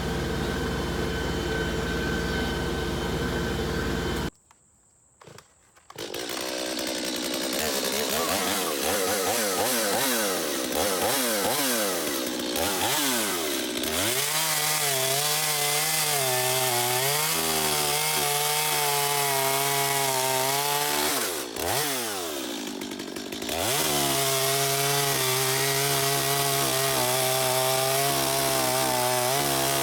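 A steady engine sound for the first few seconds, then after a brief cut a Stihl two-stroke chainsaw revs up and down repeatedly and settles into running at steady high speed, briefly dropping off about two-thirds of the way through before picking up again.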